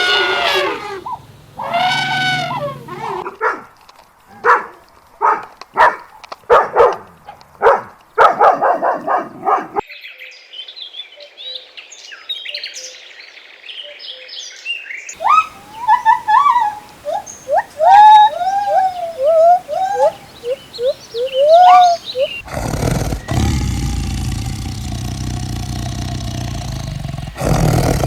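A run of different farm animal calls: pitched calls that rise and fall in the first few seconds, then short repeated calls, high chirping and quick peeping. A steady low rumbling noise fills the last five seconds or so.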